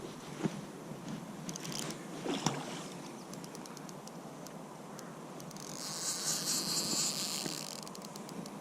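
Fishing reel ticking in quick runs, with a higher-pitched buzz of a second or two about six seconds in, while a fish is being played. Wind noise on the microphone underneath.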